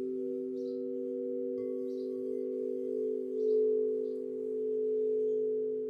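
Singing bowl sustaining a steady, layered hum that swells and eases in slow waves, with a bird's short high chirps about once a second.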